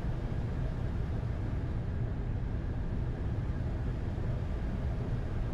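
Steady low rumble of airflow and engine noise on the flight deck of a Boeing 747-8 on approach with the landing gear down.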